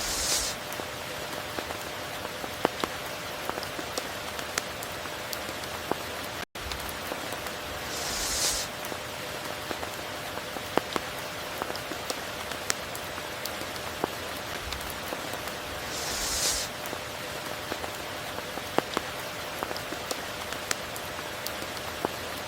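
Steady rain with scattered single drop impacts. A brief hissing swell recurs about every eight seconds, and there is a momentary dropout about six and a half seconds in.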